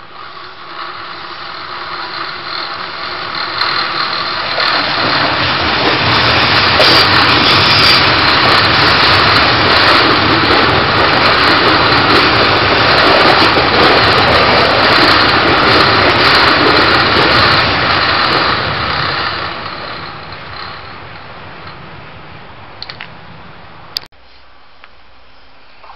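TEMU1000 Taroko Express electric tilting train passing close on the curve: the running noise builds as it leaves the tunnel, stays at its loudest for about twelve seconds as the cars go by, then fades away. Near the end the sound drops suddenly to a quieter background.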